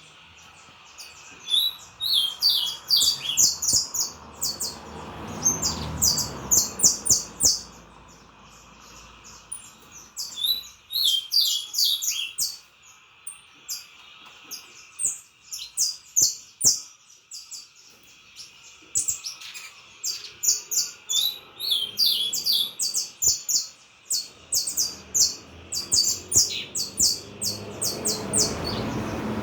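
Saffron finch (canário-da-terra) singing: phrases of rapid, sharp high notes, broken by pauses of a few seconds.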